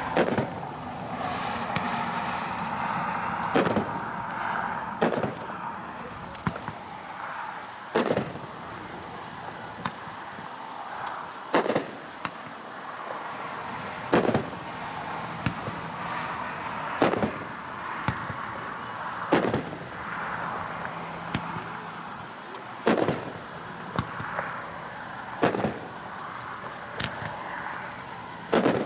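Hot Shot Golden Rule, a 12-shot 350-gram consumer firework cake, firing: about a dozen sharp, loud shell bursts, one every two to three seconds. Each burst is heard over a steady background of noise and fainter pops.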